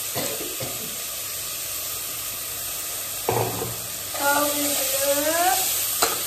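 Onion-and-masala base frying in a pressure cooker, a steady sizzle. There are a few knocks near the start as soaked chana dal is tipped in from a plastic bowl, and another knock about three seconds in. About four seconds in comes a brief, wavering, wordless voice.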